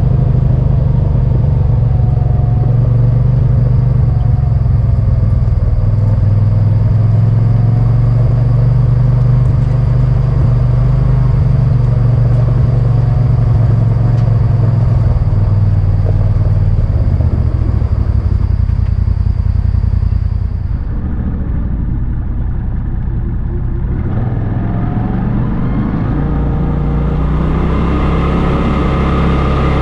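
Vehicle engine and road rumble heard while driving, steady and low. The engine note drops off briefly about two-thirds in, then rises and strengthens again in the last few seconds as the engine pulls harder.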